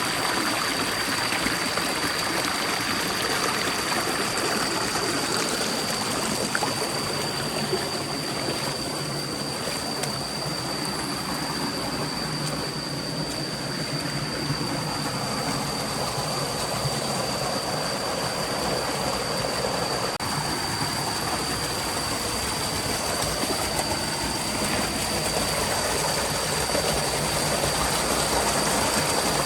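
A stream rushing: a steady, even wash of running water, with a thin steady high tone above it.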